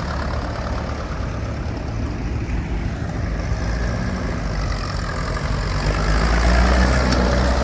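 Diesel engine of a small grey Ferguson tractor running steadily as it drives past, getting louder about six seconds in.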